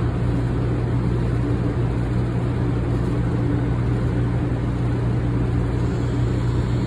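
Shinkansen train standing at the platform: a steady low electrical hum with even background rumble.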